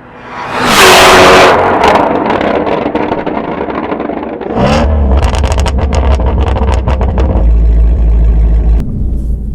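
The Shelby GT350R's 5.2-litre flat-plane-crank V8 swells to a loud rev about a second in. It revs up again a few seconds later, then a rapid run of sharp exhaust crackles and pops sounds over a deep rumble.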